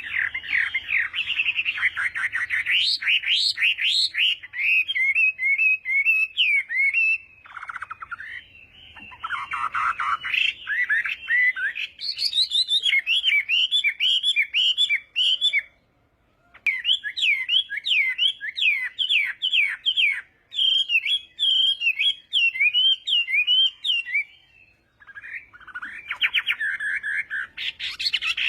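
Chinese hwamei (họa mi) singing a long, varied song of rapid whistled notes and trills, broken by a few short pauses.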